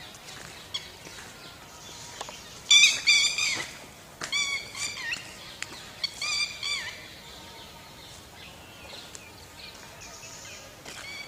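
A bird calling loudly outdoors: three bouts of repeated, ringing high notes, each note dropping in pitch at its end, about three, four and a half and six seconds in.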